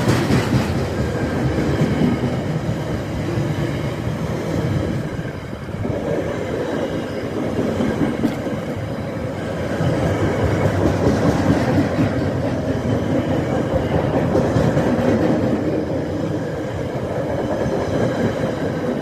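Container wagons of a freight train rolling past on the main line, their wheels making a loud, steady rolling noise on the rails, easing briefly about five seconds in.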